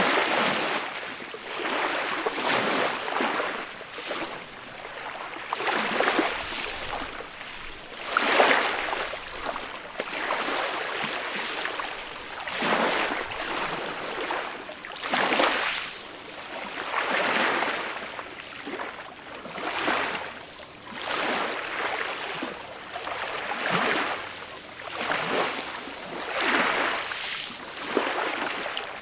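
Small, gentle waves breaking and washing up a beach. The hiss of surf swells and fades every two to three seconds.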